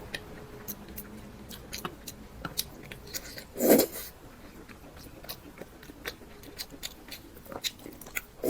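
Close-up eating sounds: chewing and biting with many small wet mouth clicks, and one louder, longer smack or slurp about three and a half seconds in.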